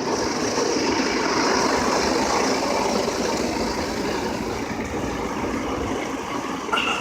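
Automatic car wash running, heard from inside the car's cabin: a steady rushing of rinse water spray and wash machinery.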